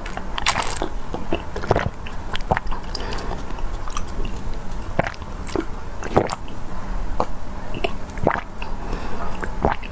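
Close-miked mouth sounds of drinking a grape drink that has pieces of grape pulp in it: wet swallows, small clicks and chewing, coming at irregular intervals.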